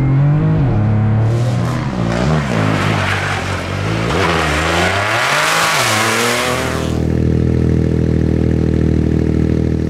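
Rally car engine revving up and down repeatedly, with a loud rushing noise over it through the middle, then settling to a steady idle about seven seconds in.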